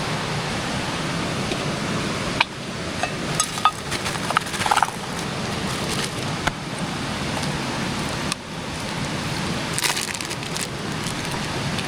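Mountain creek flowing with a steady rush of water, with scattered short clicks and crackles of things being handled a few seconds in and again near the end.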